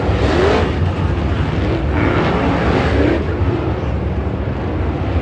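Dirt late model race car engines running, a steady low drone with a few brief rises in engine pitch.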